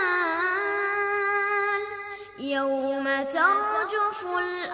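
A child's voice reciting the Quran in a melodic chant, drawing out long held notes. About two seconds in it breaks briefly, then starts again on a lower held note that rises near the end.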